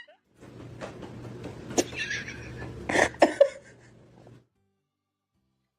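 A cat's brief cry with a few sharp knocks over a steady low hum; the sound cuts off abruptly about four seconds in.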